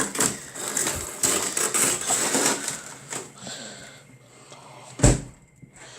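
Clattering and rustling as a plastic Coke bottle is handled and put into a freezer, ending in a single thump about five seconds in as the freezer shuts.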